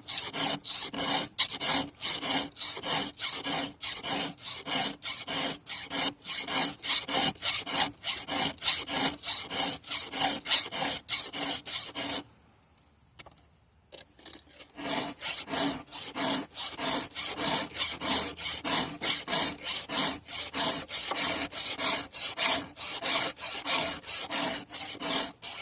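Chainsaw file rasping across the cutters of a saw chain in even, repeated strokes, about two or three a second, with a pause of a couple of seconds midway.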